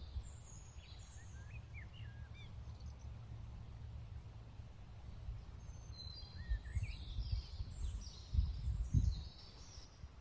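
Wild birds chirping and calling in short, scattered phrases, busiest in the second half, over a steady low rumble of outdoor noise, with a few dull low thumps near the end.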